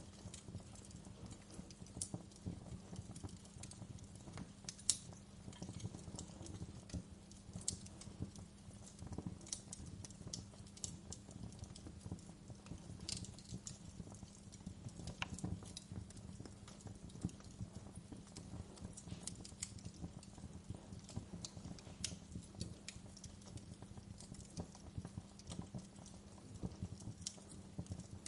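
Wood fire crackling: irregular sharp pops and snaps, the loudest about five seconds in, over a steady low rumble.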